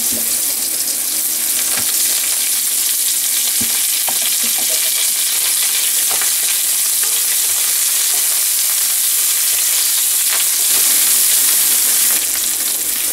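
Sliced onion, green chillies, ginger and garlic sizzling steadily in a little oil in a nonstick frying pan as curry leaves are added. A wooden spatula stirs them, with a few light taps against the pan.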